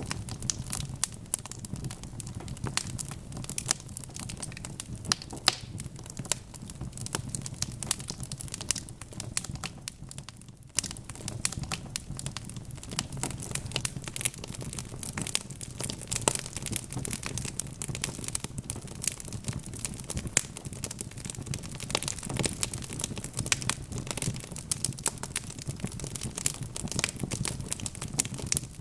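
Wood fire in a fireplace crackling and popping continuously, many sharp snaps over a low steady rumble; the sound briefly drops away about ten seconds in.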